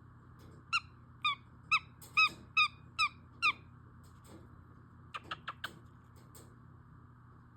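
An animal calling: seven short pitched calls in quick succession, then, after a pause, four quick high chirps that drop in pitch.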